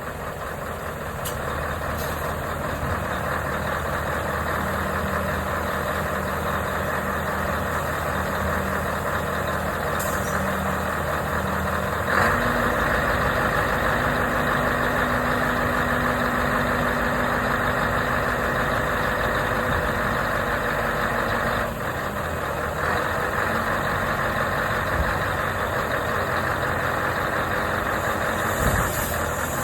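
Scania 144 G 460 truck's V8 diesel engine running steadily at idle. About twelve seconds in, the engine note steps up and gets louder, then holds steady.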